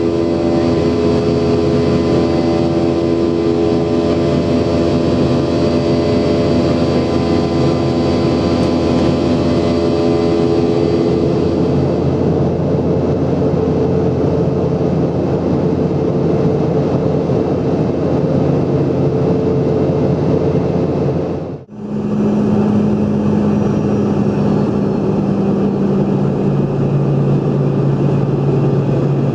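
Cabin sound of a Boeing 717's tail-mounted Rolls-Royce BR715 turbofans: a steady engine whine over rushing air. About two-thirds through, the sound briefly drops out and comes back as a lower, steady engine hum.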